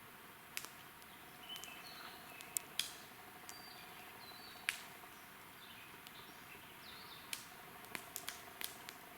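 Wood fire crackling, with irregular sharp pops, several bunched near the end, and faint short high whistling chirps in between.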